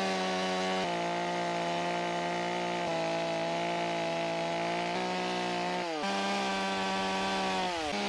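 Chainsaw running steadily while it cuts into wood, drawing the line of the mouth on a carved face. The engine's pitch sags briefly twice near the end.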